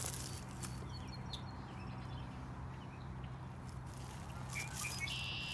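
Outdoor ambience: faint high bird chirps, with a brighter short trill near the end, over a steady low hum.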